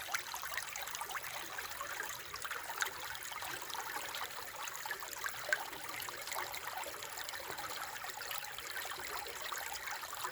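Small shallow stream trickling and babbling steadily over stones, a dense patter of small water splashes.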